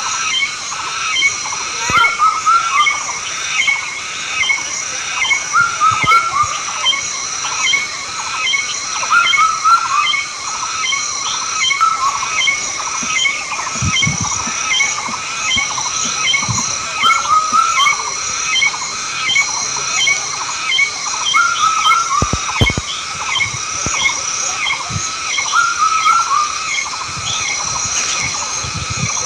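A dense chorus of animal calls: many short chirps repeating several times a second over a steady, pulsing high-pitched drone, with a few low thumps.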